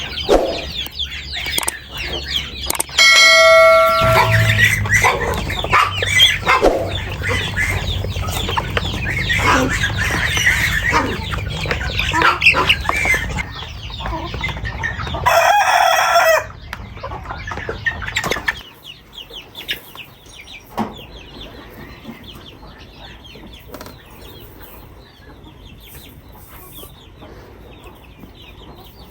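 A flock of chickens clucking, with a rooster crowing twice, about three seconds in and again about fifteen seconds in. The calls thin out and get quieter after about eighteen seconds.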